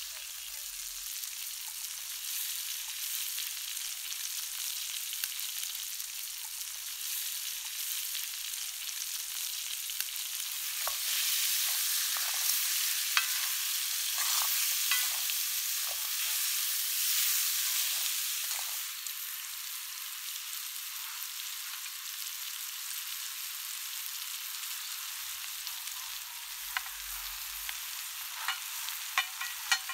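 Chicken pieces sizzling as they fry in a metal wok, a steady hiss that grows louder in the middle for several seconds. Near the end there are sharp clicks and taps of a wooden spatula as sliced vegetables are tipped in.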